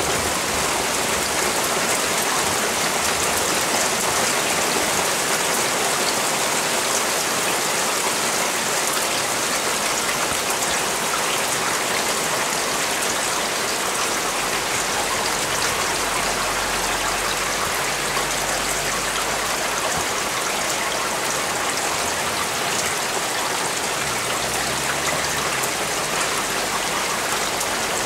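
Steady rain falling and striking hard surfaces, a dense even hiss of many drops.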